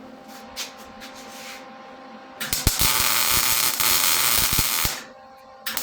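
Handheld electric power driver tightening a fastener: a steady whir for a couple of seconds, then a loud run under load with rattling clicks, a brief stop, and a second run starting near the end.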